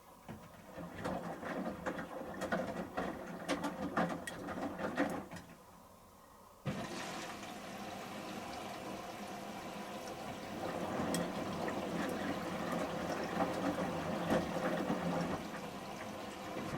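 Samsung Series 5+ front-loading washing machine in its final rinse: the drum tumbles the shirts through water, sloshing and splashing for about five seconds, then after a brief pause water suddenly starts rushing into the drum in a steady spray.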